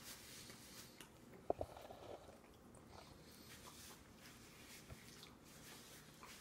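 Faint sounds of a toddler chewing food, with one sharp click about a second and a half in.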